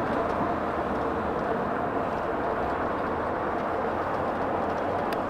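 Steady rush of wind and tyre noise from a 60-volt Wired Freedom e-bike riding at speed on fat tyres, with one sharp click near the end.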